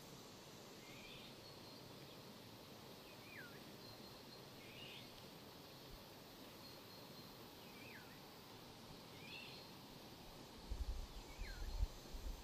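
A bird calling over a quiet outdoor hiss: short notes about every two seconds, alternating a rising note and a falling one. Low rumbling thumps come in near the end.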